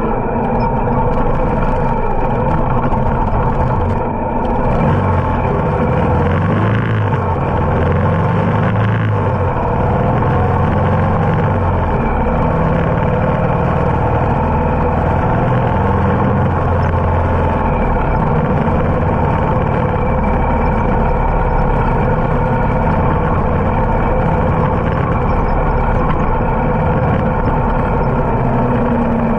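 Harley-Davidson motorcycle engine running while riding, its pitch rising and falling several times as the throttle opens and eases off.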